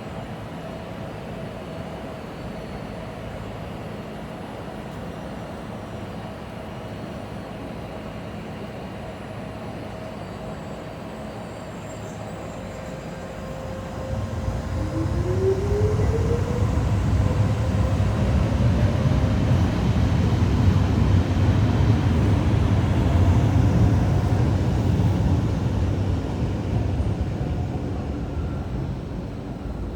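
A train passing. About halfway through a motor whine rises in pitch, and a low rumble builds, holds for several seconds, then fades away.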